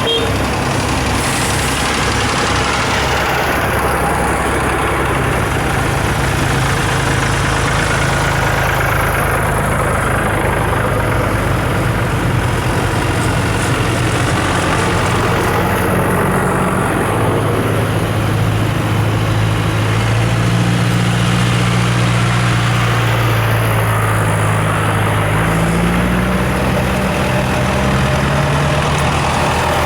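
Diesel farm tractor engines running as a line of tractors drives past, several engine notes overlapping and shifting slowly in pitch over a steady rumble.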